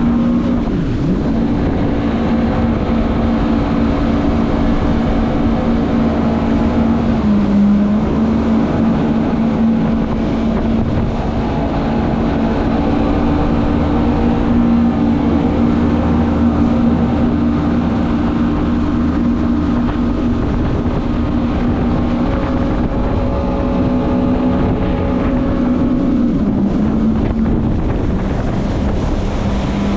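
Jet ski engine running hard at steady revs, with wind on the microphone. The engine note dips briefly about seven seconds in and again near the end.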